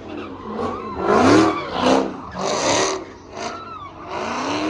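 Car engine revving in several short blips, the pitch climbing with each one, about four in all.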